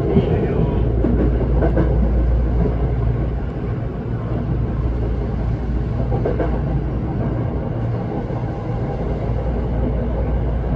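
Electric commuter train running, heard from inside the car: a steady rumble of the wheels on the rails with a few faint clicks.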